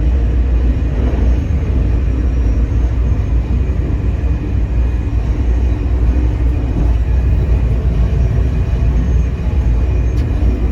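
EMU3000 electric express train running along the track: a steady low rumble of wheels on rail, with faint steady tones above it.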